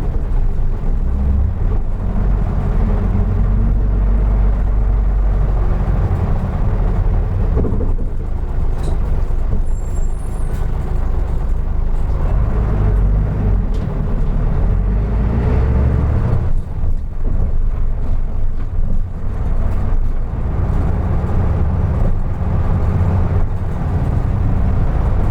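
Running sound of a 2003 Isuzu Erga Mio city bus (KK-LR233J1) heard from inside: a steady, loud low engine and drivetrain rumble as the bus drives along, easing off briefly a little past the middle before picking up again.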